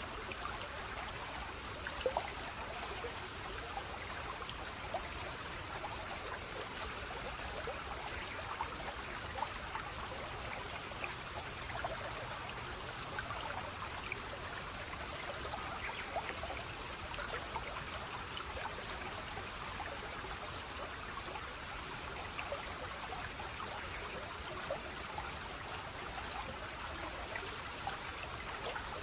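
Steady running water of a small stream, trickling and splashing, with many small droplet splashes.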